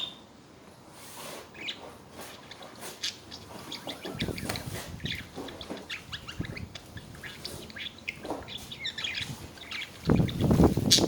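Budgerigars chattering: many short, quick chirps and warbles, one after another. Near the end comes a louder noisy rustle.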